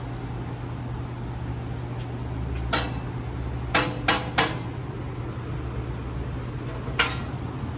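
Sharp metallic knocks from tools on the car's exhaust piping: one, then three in quick succession, then one more, over a steady low hum.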